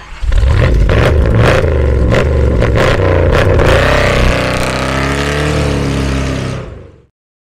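1969 Corvette C3's 383 stroker small-block V8 with headers accelerating hard away, with several sharp cracks in the first few seconds. It gets quieter after about four seconds as the car draws off, and cuts off abruptly near the end.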